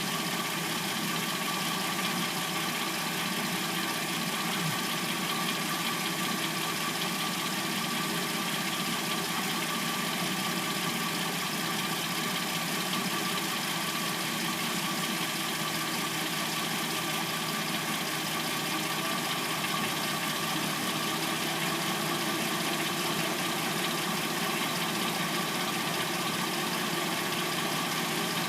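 Replacement engine of a 2006-09 Hyundai Sonata idling steadily once warmed up, with the light clackety noise that the owner assumes comes from the timing chain.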